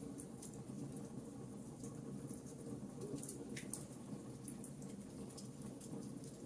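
Wood fire crackling in a fireplace: irregular small pops and snaps over a steady low rumble of burning, with one slightly bigger snap a little past halfway.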